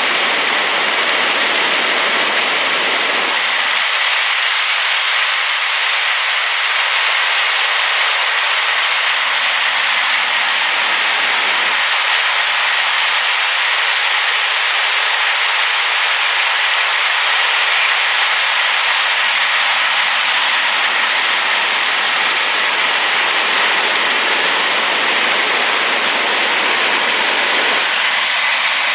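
Rain-swollen waterfall pouring steadily: a loud, unbroken rushing hiss of falling water with little deep rumble.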